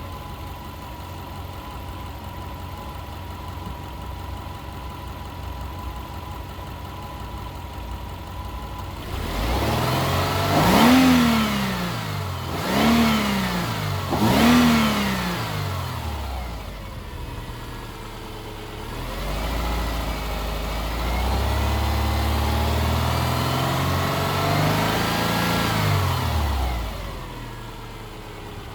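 Car engine idling, then revved in three quick blips about two seconds apart, each rising and falling back. It is then held at raised revs for several seconds, the pitch wavering, before dropping back to idle near the end.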